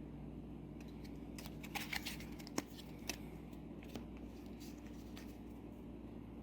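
Trading cards being handled: a few faint scattered clicks and light rustles as cards are gathered and set down, over a steady low room hum.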